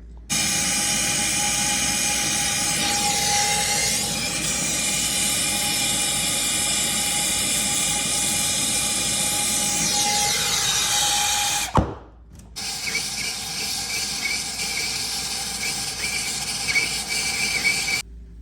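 A small electric motor running steadily with a whining hum. It cuts off abruptly with a click about twelve seconds in, then runs again with light ticking until it stops suddenly.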